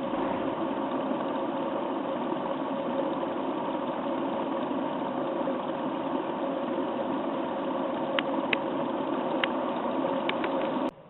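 An engine running steadily at idle, with a few sharp clicks near the end before the sound cuts off abruptly.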